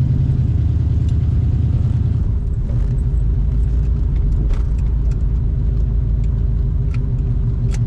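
A 1974 Corvette Stingray's 350 V8 running through its side-exit exhaust, heard from inside the cabin while driving. The engine note drops about two seconds in, and a few light clicks sound over it.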